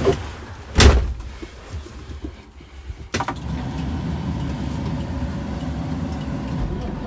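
Two heavy clunks of a Kenworth truck's cab door, a loud one about a second in and another around three seconds, followed by the steady low rumble of the truck's engine running.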